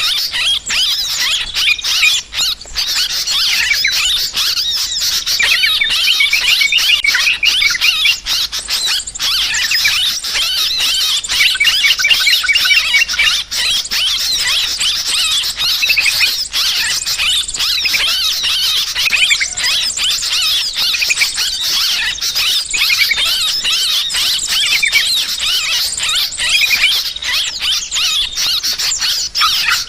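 Many yellow-vented bulbuls (trucukan) chattering noisily in agitation, a dense flock chorus of short, overlapping calls without a break, as used for a bird-trapping lure.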